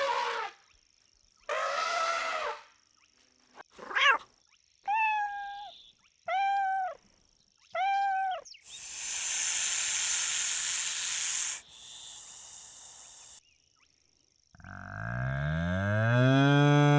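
A series of different animal calls, one after another. First come a few short pitched calls, then three short arched calls about a second apart, then about three seconds of hissing noise. Near the end there is one long, low call that falls in pitch.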